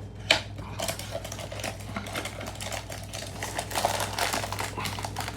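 Blind-box packaging being handled and opened: rapid crinkling and clicking of cardboard and wrapper, with one sharp click about a third of a second in.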